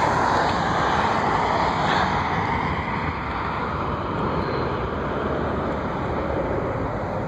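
Jet airliner's engines rushing as the plane passes, a steady roar whose pitch slowly drifts lower.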